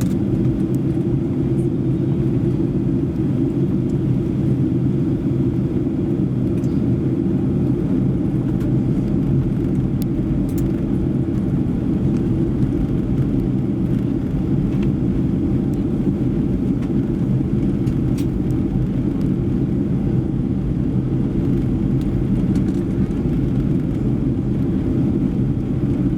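Steady cabin noise inside a Boeing 737-800 in flight: a deep, even rumble of the CFM56-7B engines and airflow past the fuselage, with a few steady low hums and no change in level.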